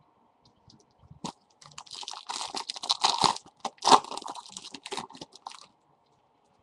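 Foil trading-card pack wrapper crinkling as it is torn open, a run of crackling bursts lasting a few seconds and loudest near the end.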